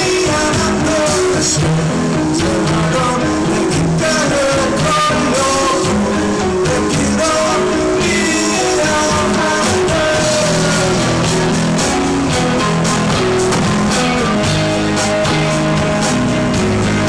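Rock band playing live: electric guitars and drum kit with a sung vocal line.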